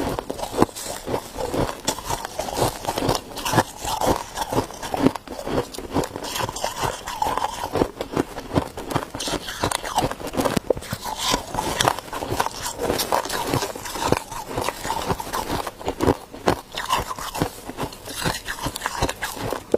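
Ice being bitten and chewed: a dense, irregular run of crisp crunches and cracks.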